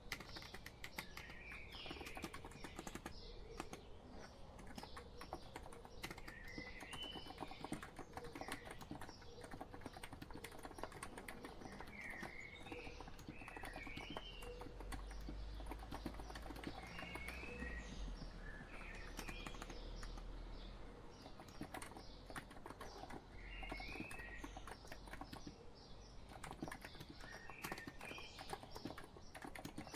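Steady typing on a COX Empress electrocapacitive keyboard, a dense run of soft keystrokes. Bird song chirps over it, a short phrase every few seconds.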